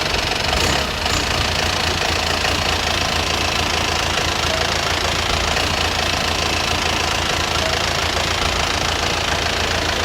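An engine running steadily: a low rumble under a broad hiss, with a brief dip about a second in.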